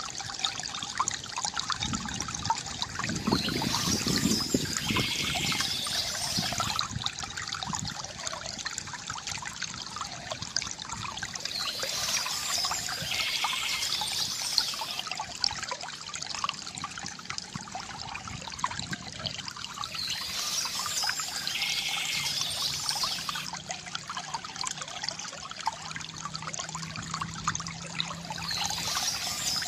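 Water trickling and pouring from a bamboo fountain, a continuous gurgling flow. A brighter, hissier swell of the water comes back about every eight or nine seconds.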